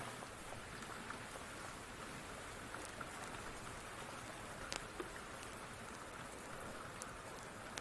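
Steady rain hissing, with a wood fire crackling over it in a few scattered sharp pops.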